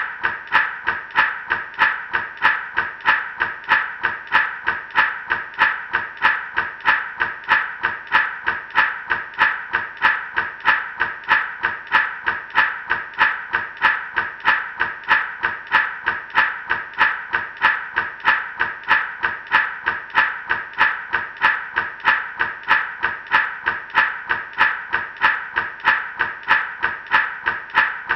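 Gourd rattle shaken in a steady, even rhythm, about two shakes a second, each a sharp rattle of seeds against the dry gourd shell.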